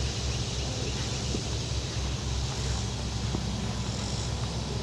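Steady outdoor background noise: a continuous low rumble with an even hiss over it and no distinct events.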